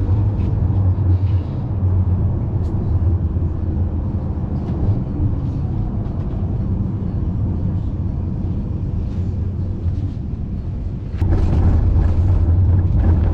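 Tram running, heard from inside the car: a steady rumble of wheels on rails with a low motor hum, which gets abruptly louder about eleven seconds in.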